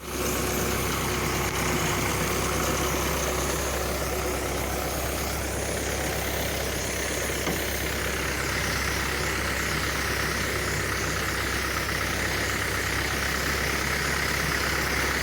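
Kubota engine driving a high-pressure spray pump for weed-killer spraying, running steadily at an even speed.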